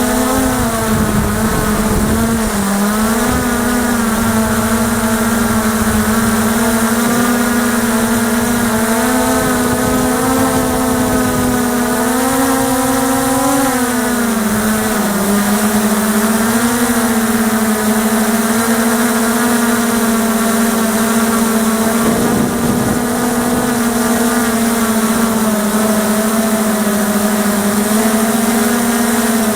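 Motors and propellers of a 450-size X8 coaxial multicopter running in flight, a steady hum whose pitch wavers up and down, rising around the middle and dipping just after. Wind buffets the microphone with a low rumble, strongest in the first few seconds.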